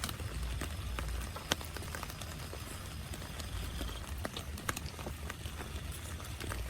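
Rain on a tent: irregular sharp drops tapping on the fabric over a steady hiss and a low rumble.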